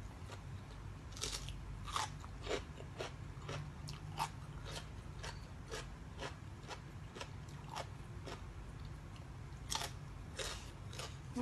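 A person biting and chewing crunchy food close to the microphone: irregular crisp crunches, several a second at times, with louder bites about a second, two seconds and ten seconds in.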